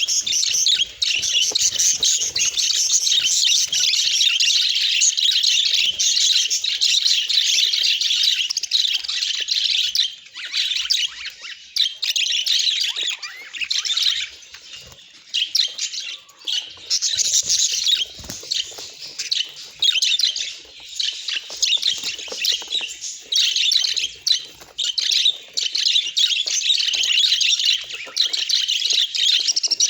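Budgerigars chattering in dense, rapid runs of high chirps, with short lulls about ten, fourteen and eighteen seconds in.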